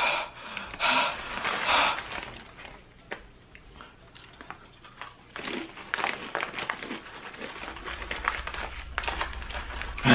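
A person breathing hard through the mouth against the burn of ghost pepper chips, with forceful breaths about a second in and fainter ones later. Small crisp crunching and crinkling clicks come in between.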